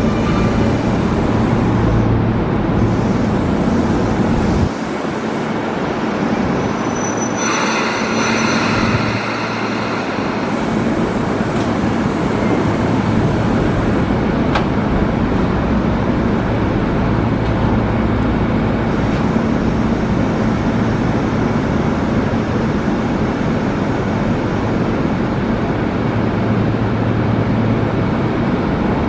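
Sotetsu 8000 series electric commuter train coming to a stop at the platform, its motor whine falling over the first few seconds. It then stands with a steady low hum from its equipment. A brief burst of hissing comes about seven seconds in.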